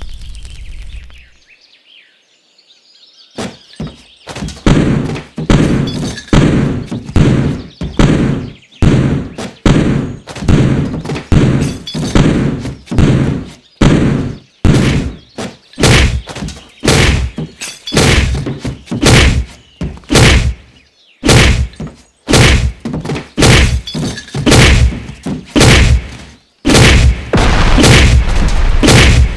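Steady noise that cuts off about a second in, a short pause, then a long, irregular run of loud thumps and bangs, roughly one or two a second, each with a brief ring.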